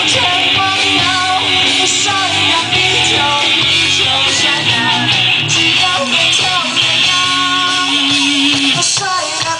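Live band music with guitar playing a melodic passage over a steady bass line.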